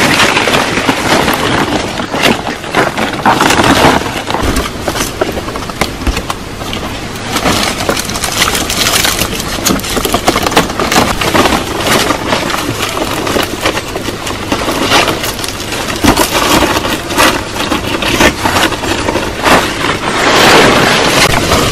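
Wood cracking and snapping again and again, many sharp cracks over constant rustling, as branches or bamboo are broken and worked for a shelter.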